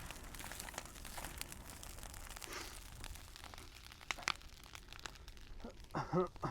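Bonfire of brush and cut trees crackling, with irregular sharp pops and snaps. A short voice-like call near the end.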